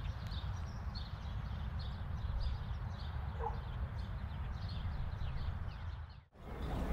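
Outdoor ambience: a small bird chirping over and over above a steady low rumble. It drops out briefly near the end.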